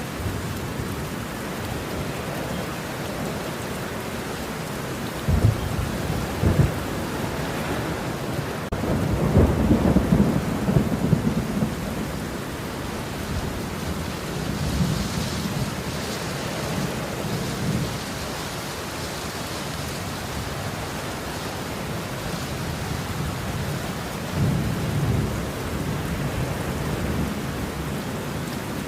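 Steady heavy rain with rolling thunder: two sharp cracks about five and a half and six and a half seconds in, the loudest rumble just after, and softer rumbles later.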